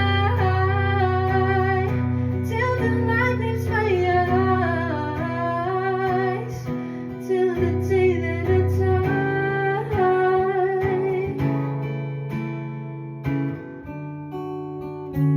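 A woman sings over acoustic guitar with a sustained low bass line. The voice stops about three quarters of the way through, leaving the guitar playing on.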